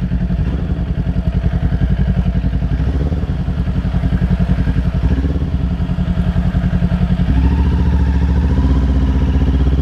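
Kawasaki Ninja 400's parallel-twin engine running at low revs as the bike rolls slowly over large speed bumps, its exhaust pulsing steadily. The engine note rises a little about seven seconds in.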